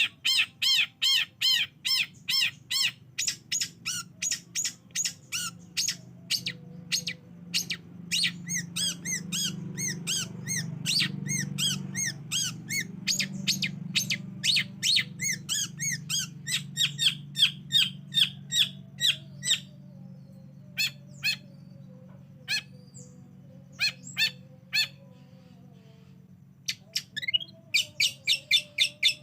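Long-tailed shrike (cendet) calling in fast runs of repeated sharp, chattering notes, about three a second. The notes thin to a few scattered calls for several seconds, then pick up again in a dense run near the end.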